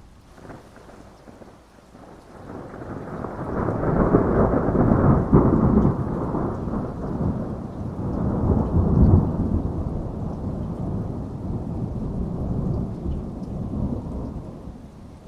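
A long roll of thunder over steady rain: the rumble builds about two seconds in, peaks twice, then slowly dies away near the end.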